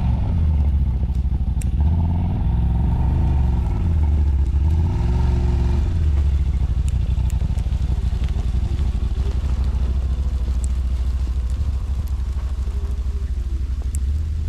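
Vehicle engine running with a steady low rumble while driving.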